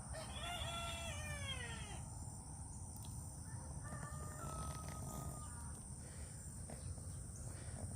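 A cat meowing: one long call that falls in pitch, then a fainter, steadier, higher call about four seconds in.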